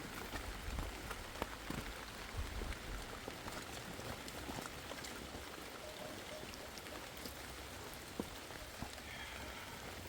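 Steady rain falling, with scattered sharper drops striking a surface.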